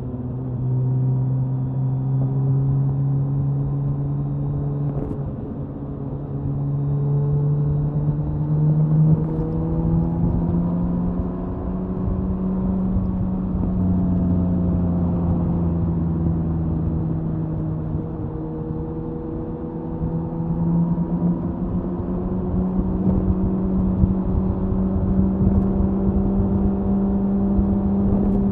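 Suzuki Hayabusa's inline-four engine and exhaust running at expressway cruising speed, loud and steady. The engine note climbs over the first several seconds, eases a little midway, then rises again.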